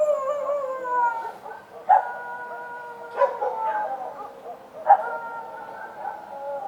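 Street dogs howling: about four drawn-out howls, each starting sharply and sliding slowly down in pitch, some overlapping one another.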